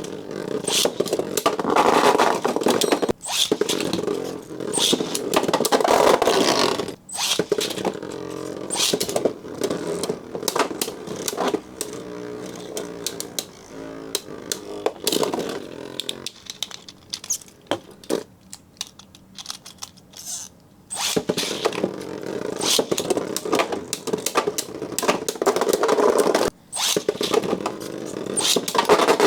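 Beyblade tops, Lightning L-Drago against Gravity Perseus, spinning and clashing in a plastic stadium. It is a scraping, rattling whir broken by sharp collision clicks. It runs as several short battles, each stopping and starting again.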